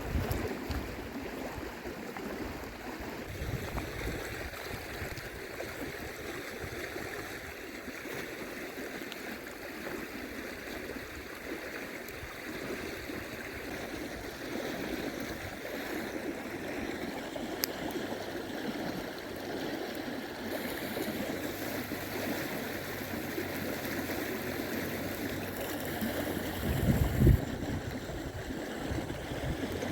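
Steady rushing of a flowing river or stream. Near the end a brief low thump stands out above it.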